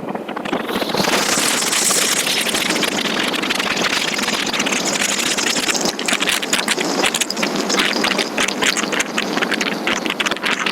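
Rushing wind and road noise on a moving motorcycle, with the engine running underneath. The noise grows louder about a second in, then flutters unevenly against the microphone.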